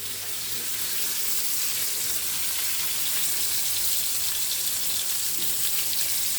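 Chicken fillets sizzling steadily in hot peanut oil in a frying pan, a constant crackling hiss.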